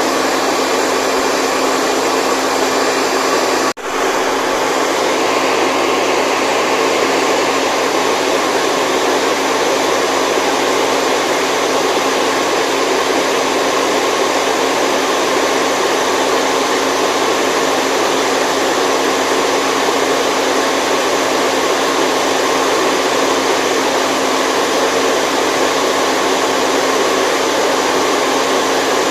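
Steady white noise for sleep, a constant even rush with a faint hum under it. It drops out for a split second about four seconds in, then carries on unchanged.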